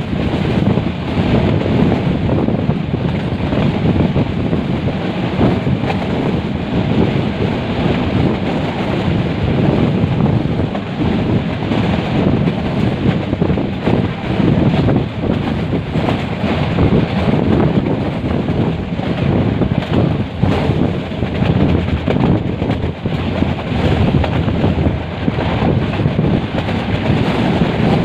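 Steady running noise of a metre-gauge passenger train heard from on board, with wind buffeting the microphone.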